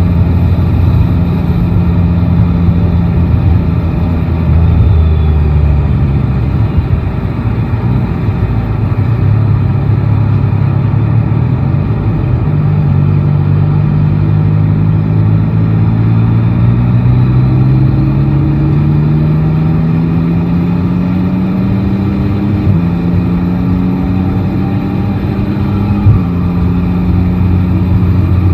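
Yamaha Tracer 9 GT's 890 cc inline-three engine heard from the rider's seat in city riding. The engine note holds, eases off, then climbs slowly for about ten seconds as the bike accelerates. Near the end the pitch drops twice on upshifts, the second time with a short knock, over steady wind and road noise.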